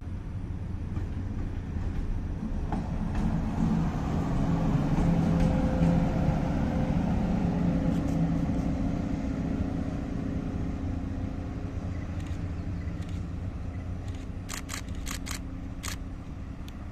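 A train passing: a steady low rumble with a humming drone that builds to a peak about halfway and then slowly fades. Near the end comes a quick run of sharp clicks.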